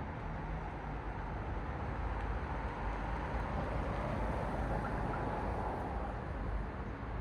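Road traffic: the steady rush of car tyres and engines passing, swelling a little around the middle as a car goes by.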